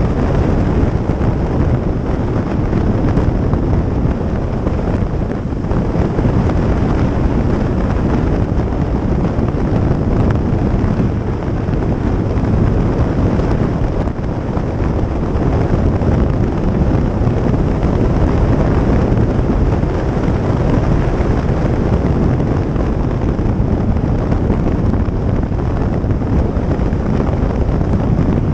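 Steady wind noise buffeting the microphone on a moving motorcycle, mixed with the bike's engine and road noise.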